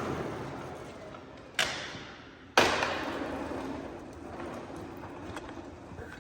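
Sanitaire SC899 upright vacuum's motor winding down as it fails with a busted fan. Then two sharp knocks about a second apart, the second louder and followed by a fading rattle-like noise.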